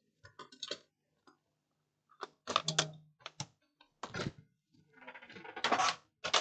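Scattered small clicks, taps and rattles of laptop parts being handled during disassembly, with a denser cluster of rattling clicks near the end.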